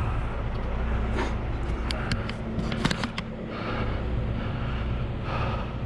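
Heavy truck diesel engine idling steadily, with a few sharp clicks about one to three seconds in.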